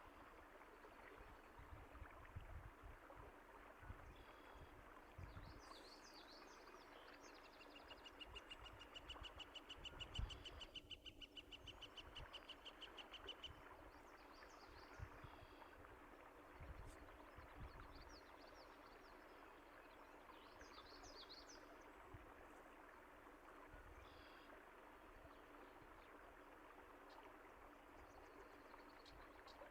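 Faint, steady running water with birds chirping over it. A third of the way in, one bird sings a rapid trill lasting about five seconds. Occasional low rumbles sit underneath.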